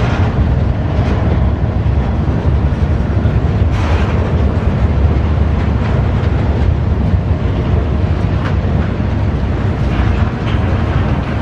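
CSX freight train's cars rolling past: a steady, loud rumble of wheels on rail, with a few faint clanks.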